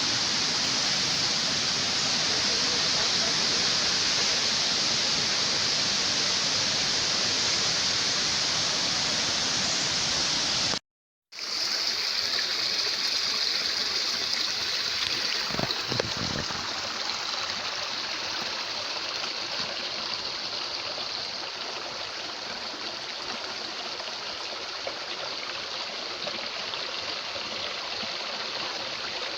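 Waterfall's water rushing steadily. About eleven seconds in it cuts out for a moment and comes back a little quieter and less hissy.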